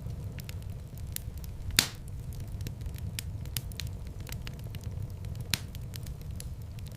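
Wood fire crackling in a fireplace: a steady low rumble of flames with frequent small snaps, and two louder pops about four seconds apart.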